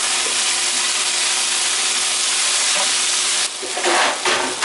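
Sliced bell peppers and onions sizzling in a hot stainless steel skillet as they are stirred with a spatula. The sizzle dips about three and a half seconds in, with a brief louder noise near the end.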